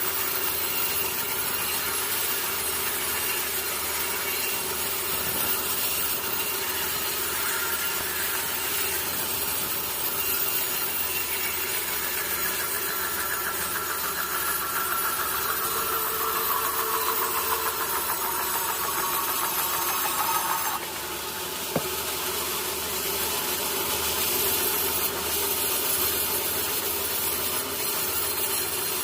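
Sawmill saw cutting through a teak log: a steady, dense sawing noise with a high whine over it. About 21 seconds in, the sound drops and changes, and a single sharp knock follows a second later.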